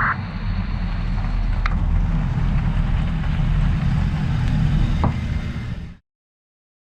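Ford Crown Victoria Police Interceptor driving, a steady low engine and road rumble that cuts off abruptly about six seconds in.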